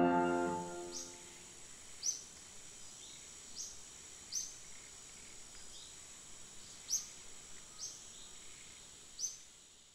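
Birds chirping: a string of short calls that slide downward, roughly one every second, over a faint steady high-pitched drone. A piano chord fades out at the start.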